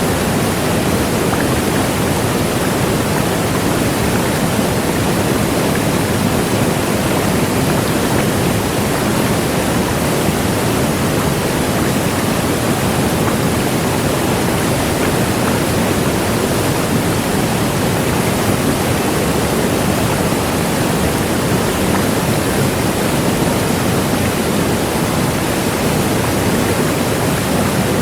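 Large waterfall roaring steadily: a dense, even rush of falling water, strongest in the low and middle range, with no change.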